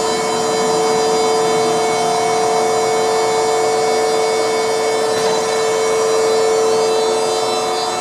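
A 1979 Danobat RT-2500 horizontal surface grinder running under power, giving off a steady whine made of several held tones over a mechanical hiss.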